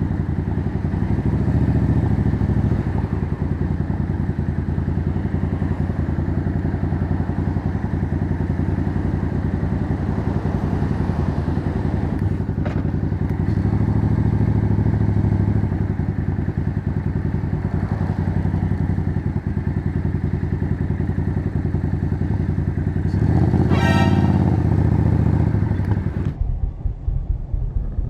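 Suzuki Intruder 800's V-twin engine running while riding, swelling louder three times as the throttle is opened.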